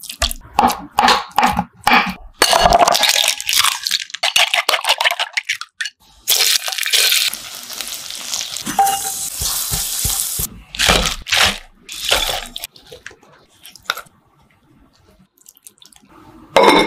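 A run of close-up cooking sounds: short knocks of prep work first, then triangles of tofu sizzling as they pan-fry in hot oil. Near the end comes a splash of liquid sauce poured into a clay pot.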